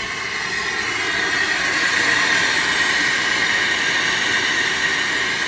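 Loud, steady rushing machine noise with a high whine, swelling a little in the middle.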